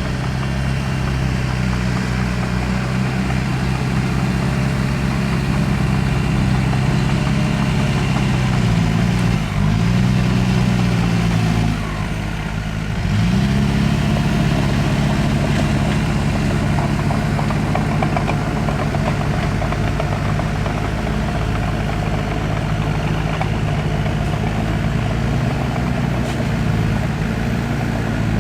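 Heavy earthmoving machine's diesel engine running steadily under load. Its pitch dips and climbs back twice, about ten and thirteen seconds in, and it goes briefly quieter at the second dip.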